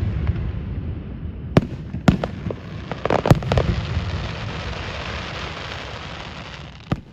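Aerial fireworks going off: several sharp booms, then a long crackling hiss that swells about three seconds in and slowly dies away.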